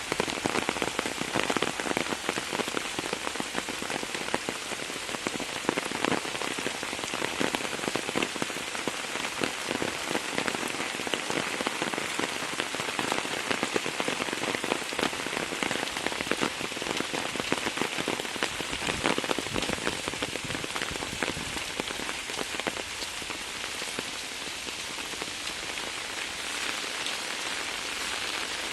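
Heavy monsoon rain falling steadily, with dense patter of close drops. It eases slightly near the end.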